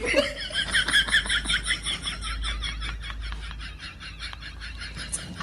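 An animal's rapid, evenly repeated high calls, about six or seven a second, loudest at first and fading over the next few seconds.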